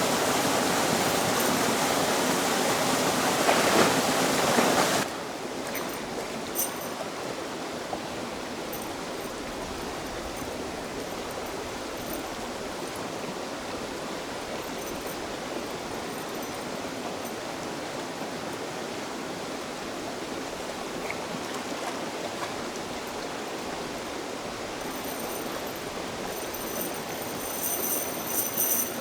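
Rushing floodwater, loud and steady, cutting off abruptly about five seconds in to a quieter, steady flow of water.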